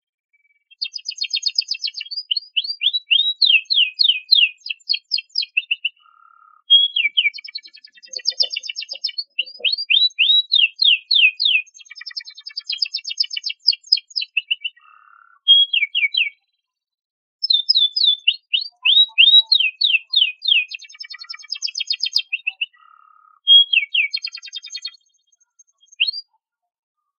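Domestic canary singing: long phrases of rapid, repeated downward-sweeping trill notes, broken by two short pauses.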